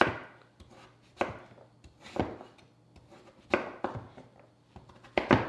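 Kitchen knife chopping food on a cutting board: about seven slow, uneven strikes, two of them in quick pairs.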